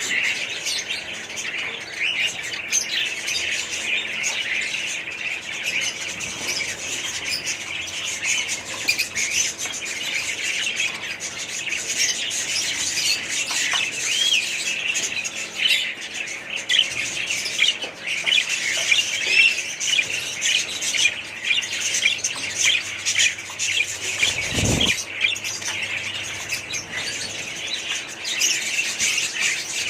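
A flock of small pet parrots, budgies or lovebirds, chattering and chirping without a break. A single dull thump comes near the end.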